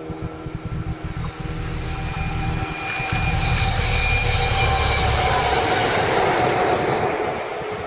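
A train passing close by at speed: the rumble and rail noise build up, hold for a few seconds with a high whine whose pitch sinks slightly, then fade near the end.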